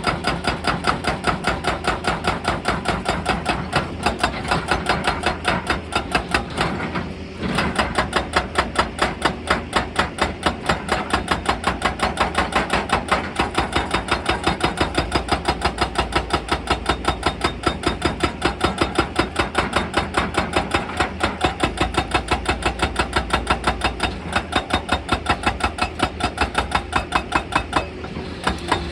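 Excavator-mounted hydraulic breaker hammering rock in rapid, even blows, several a second, over the machine's engine, with a brief pause about seven seconds in.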